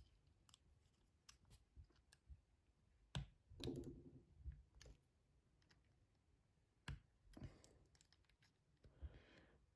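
A few faint, short clicks and taps, several seconds apart, against near silence: hand tools working the C-clip on a lock cylinder.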